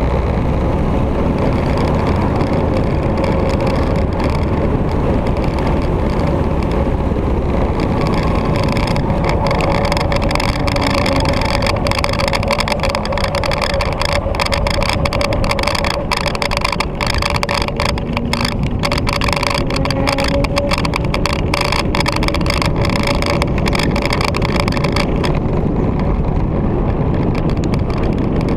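Victory motorcycle engine running under way, with steady wind and road noise; midway the engine note falls and then rises again as the bike slows and picks up speed.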